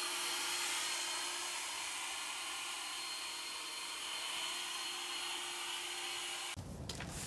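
Leaf blower running steadily, blowing dust and debris off a concrete slab; it stops near the end.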